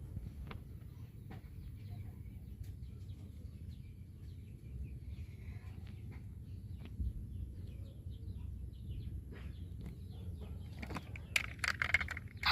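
Faint bird chirps over a steady low rumble, with scattered light clicks that bunch together near the end.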